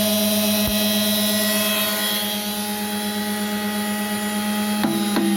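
Treadmill DC electric motor running steadily on a bench power supply: a constant hum with a thin high whine. It is running smoothly, with no sparking. Near the end a few clicks come and the hum changes slightly.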